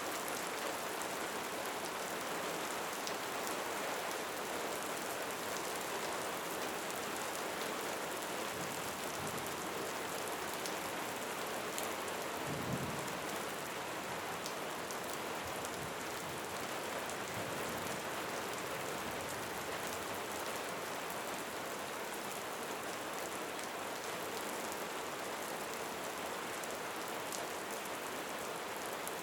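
Steady rain falling, a dense even hiss with scattered individual drops ticking through it. About twelve seconds in there is a brief low rumble.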